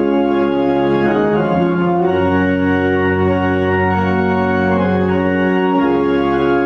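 Organ playing slow, sustained chords, with chord changes about two seconds in and again near six seconds.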